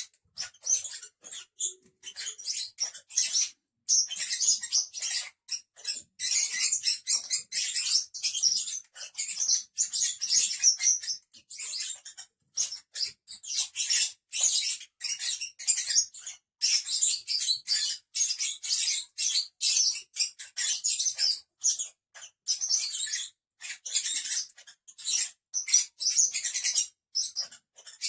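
A group of lovebirds chattering continuously with rapid, high-pitched chirps and squeaks.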